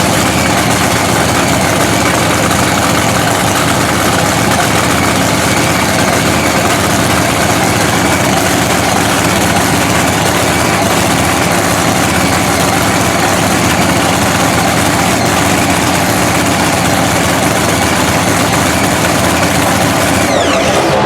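Supercharged Hemi drag-racing engine idling steadily and loudly.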